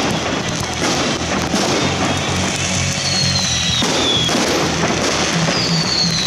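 Aerial fireworks shells bursting and crackling, over music with a steady bass line.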